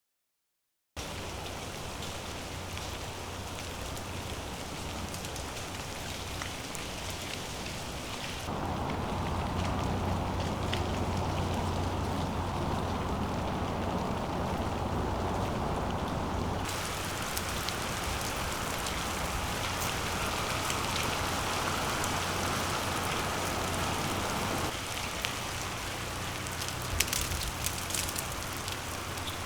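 Freezing rain falling steadily. Its character changes abruptly about 8, 17 and 25 seconds in, and a few sharp ticks come near the end.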